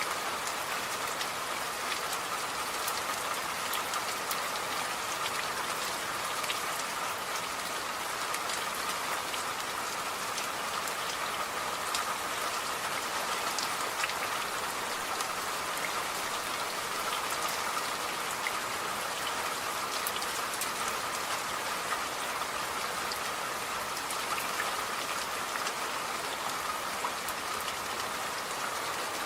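Steady rain falling, with many individual drops ticking through an even hiss.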